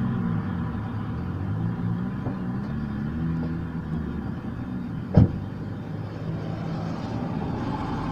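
Hyundai i30 engine idling steadily, recorded for an extraneous noise in the engine. One sharp knock about five seconds in.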